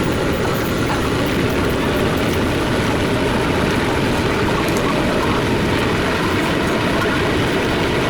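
Vintage Brooklyn Union gate subway car running at speed, heard from on board: a steady rumble of wheels on the rails, with faint clicks and rattles scattered through it.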